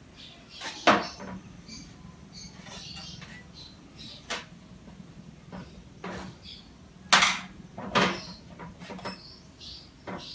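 Scattered clicks and knocks of tools and containers being handled while body filler and hardener are prepared, with louder knocks about a second in and twice near the end.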